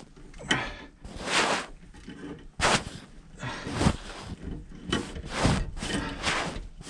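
Repeated short scraping strokes, about one a second and quickening near the end, as a wrench works an over-tightened gas pipe loose from the threads of a furnace gas valve.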